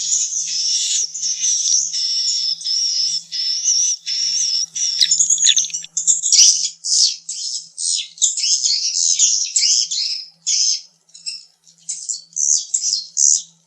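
Swiftlet calls: dense, continuous high twittering for about the first six seconds, then separate short chirps coming roughly twice a second.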